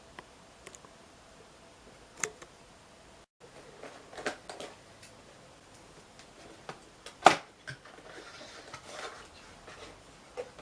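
Sparse clicks and taps of packaging being handled by hand, with one sharp click about seven seconds in and some rustling after it.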